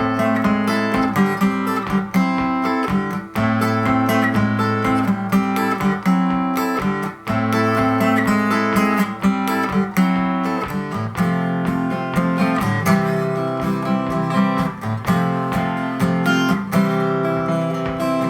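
Acoustic guitar strummed in chords without singing: an instrumental interlude leading from one song of a medley into the next.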